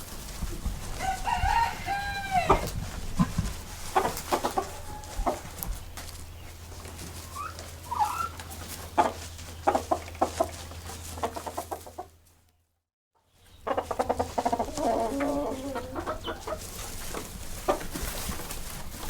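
Chickens clucking, with a rooster crowing, in a string of short calls and a few longer drawn-out ones. The sound cuts out for about a second, about two thirds of the way through.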